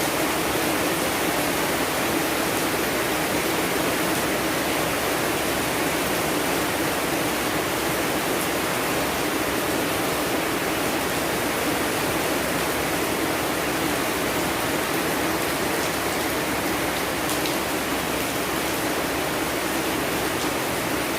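Steady, dense rainfall, a constant even hiss with a few faint drop ticks near the end.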